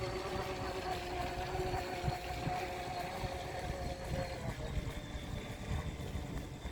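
Radio-controlled model Tyne-class lifeboat running on the water, its motors giving a steady whine that drops away about four and a half seconds in, over a low rumble.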